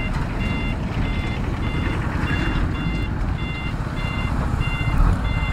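An electronic beeper sounding short, evenly spaced beeps, about one and a half a second, over steady low road and wind rumble from a moving motorcycle.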